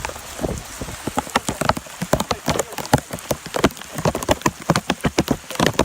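Heavy typhoon rain: large drops landing close by in a dense, irregular run of sharp taps over a steady hiss.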